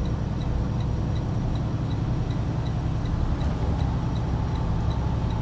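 Semi truck's diesel engine droning steadily in the cab as the truck builds up speed, with the hazard-light flasher ticking in a quick, even rhythm, a little under three ticks a second.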